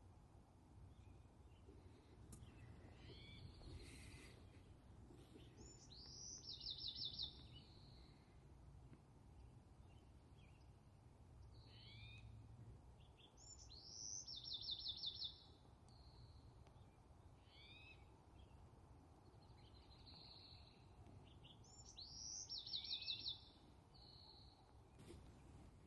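A songbird singing the same short song three times, about every eight seconds; each song opens with a few slurred notes and ends in a quick trill of rapid repeated notes. Fainter bird calls sound between the songs.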